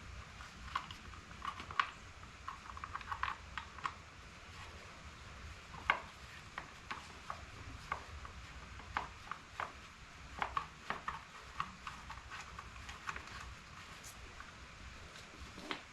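Irregular light clicks and taps of a pit bike's fender and its hardware being handled, scattered through the whole stretch with no steady rhythm.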